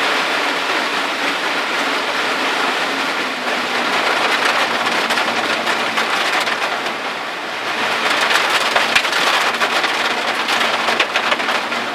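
Heavy monsoon rain pouring steadily during a typhoon, with more close, sharp drop hits in the last third.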